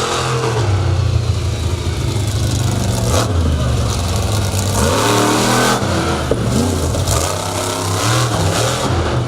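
Monster truck engine revving hard, its pitch sweeping up and down several times.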